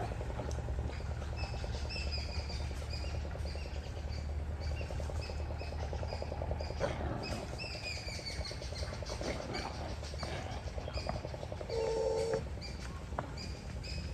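Birds chirping, short high calls repeated every second or so, over a low rumble that fades out about halfway through.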